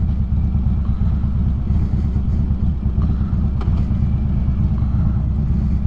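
Harley-Davidson motorcycle engine running steadily while riding, with a deep, even rumble and road noise.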